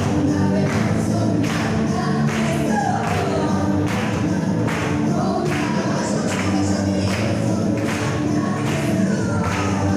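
Gospel song with a choir singing over a steady beat of about two strikes a second.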